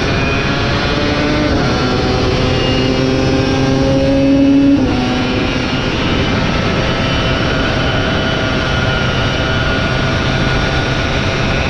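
A superbike's engine at race speed, its pitch climbing steadily for about five seconds, then dropping sharply at a gear change or braking point before running on at a near-steady pitch, over a constant rush of wind noise.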